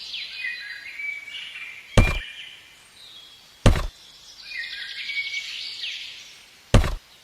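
Birds chirping and trilling, with three sharp knocks: about two seconds in, again a second and a half later, and once more near the end.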